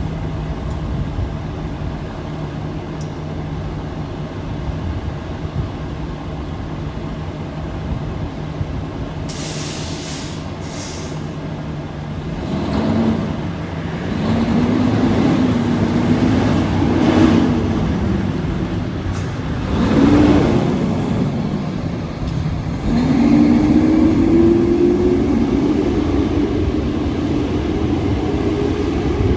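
Tiller ladder fire truck's diesel engine idling with a steady hum, then a short burst of hissing air from the brakes being released about ten seconds in. From about twelve seconds the engine revs up and drops back several times as the truck accelerates away through its gears.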